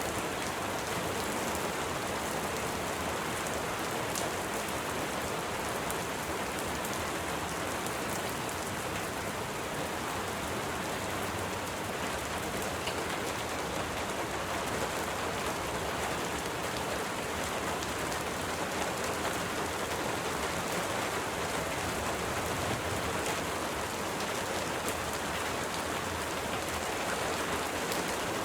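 Steady rain falling, an even hiss with faint fine drop ticks.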